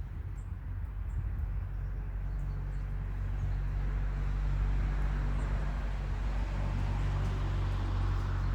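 A motor vehicle passing, its low engine hum and road noise swelling over several seconds, then easing off near the end.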